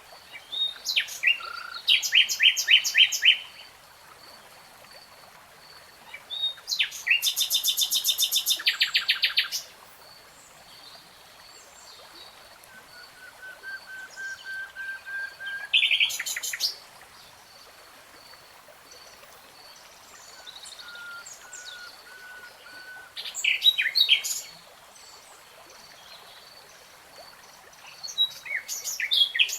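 Nightingale singing in separate phrases every few seconds: fast trills and rapidly repeated notes, and one run of soft whistles that swells in loudness before ending in a quick burst.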